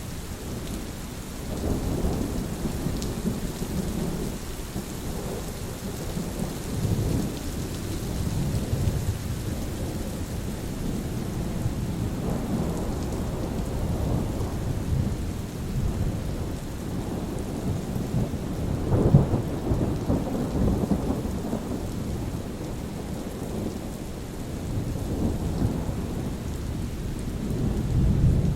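Steady rain with rolling thunder: low rumbles swell and fade every few seconds, the loudest peal about two-thirds of the way through and another building near the end.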